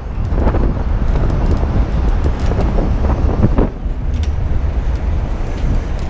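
Wind buffeting the microphone of a camera on a moving electric bike, a steady rumble, mixed with passing road traffic and a few light clicks and rattles.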